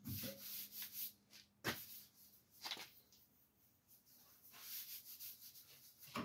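Irregular rubbing and scraping strokes on the truck's body panel during dent repair, with a sharp knock about two seconds in and another at the end.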